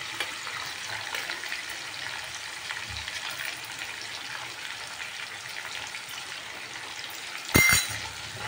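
Chopped tomatoes and spice paste sizzling as they fry in hot oil in a pan, a steady hiss. Near the end a metal utensil strikes the pan or bowl with a sharp clink that rings briefly.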